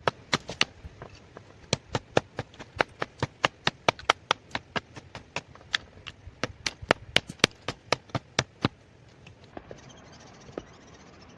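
A fast, irregular run of sharp knocks, a hand tool striking wood, about three to five a second, stopping about nine seconds in. A faint steady hiss of outdoor background noise remains after it.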